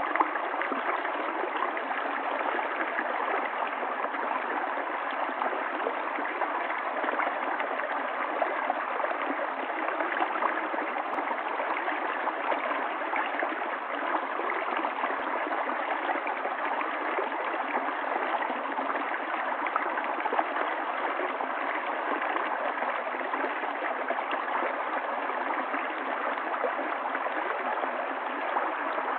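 Running water of a stream flowing steadily, an even sound without separate splashes or changes.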